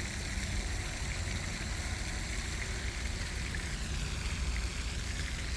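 Steady outdoor background noise: an even hiss with a low rumble underneath and no distinct knocks or calls.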